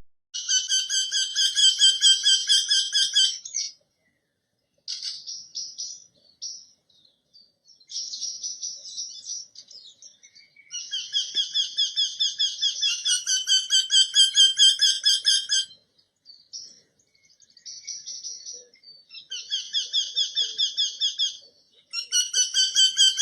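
A bird calling in high-pitched, fast-pulsing chattering bouts of a few seconds each, broken by short pauses.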